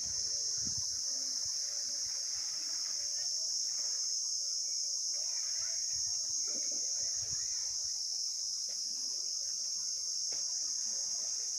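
Steady, high-pitched insect chorus droning without a break, with faint bird chirps underneath.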